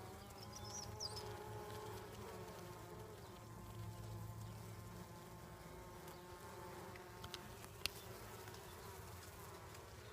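Honeybees from an opened hive buzzing steadily, a hum of many bees with slightly wavering pitch. There is a single sharp click about eight seconds in.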